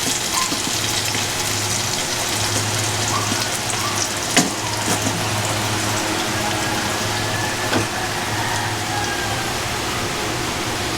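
Chicken frying in a pan, a steady sizzle as cream is added, with a low steady hum underneath and one sharp utensil-like tap about four seconds in.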